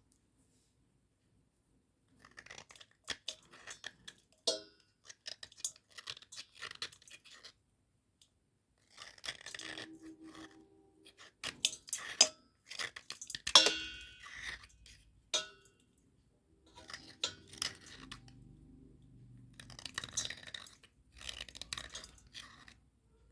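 Dry cubical slate pencils crunching and scraping in bursts of gritty crackling, with short silent pauses between the bursts.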